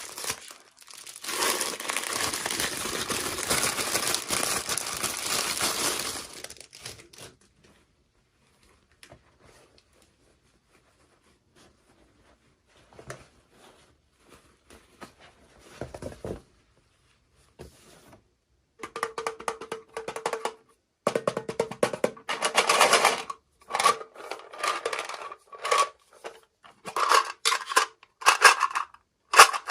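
Toy packaging being handled: plastic crinkling and rustling for several seconds, then a near-quiet stretch with a few small clicks, then a run of short rustles and rattles.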